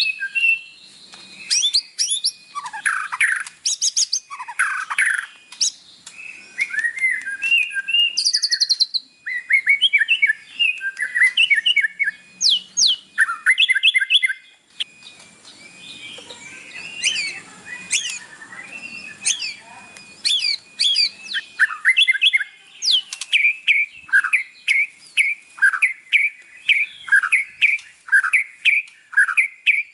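White-rumped shama singing a long, varied song: quick whistles, slurred notes and rapid trills, phrase after phrase with only short pauses.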